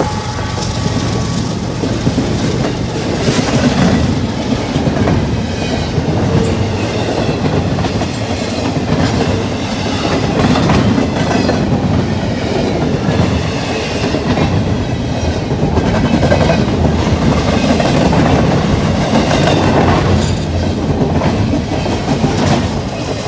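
CSX intermodal freight train cars rolling past at close range, a steady loud rumble with repeated clickety-clack of wheels over rail joints, under wind and rain.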